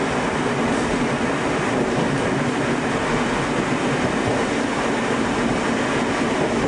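Tobu 5700 series electric train running along the track, a steady rumble of wheels and running gear heard from the front cab.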